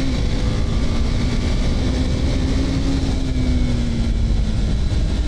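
KTM RC 390's single-cylinder engine running at a steady cruising speed, its note holding even and easing slightly lower near the end, over heavy low wind rush on the riding microphone.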